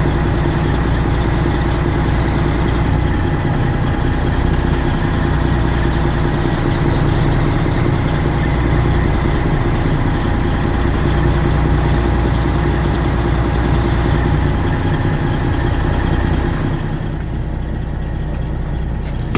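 Straight-piped Freightliner Classic XL's Detroit Diesel 12.7-litre engine running steadily at low revs. It drops a little in level near the end, then cuts off suddenly.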